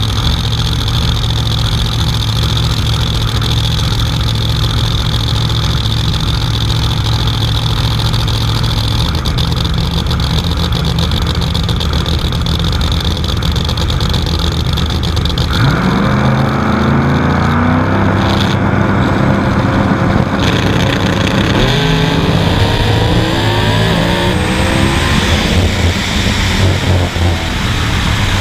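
Drag race car engine idling steadily on the line, heard from inside the car. Just past halfway it launches, and the revs climb and fall back several times as it accelerates hard through the gears down the strip.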